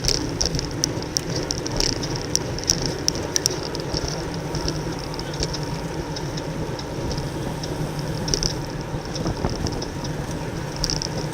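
Wind rushing over an on-bike camera microphone at race speed, with steady road and tyre rumble from a racing bicycle. A pulsing high hiss and scattered sharp clicks run through it.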